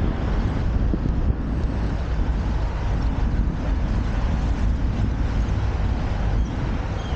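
Steady wind rumble on the microphone of a cyclist riding along a city street.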